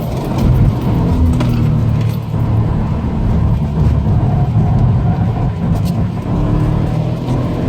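Subaru Impreza WRX STI's turbocharged flat-four engine running hard, heard from inside the cabin. Its pitch drops in the first couple of seconds and climbs again near the end, with a few sharp clicks along the way.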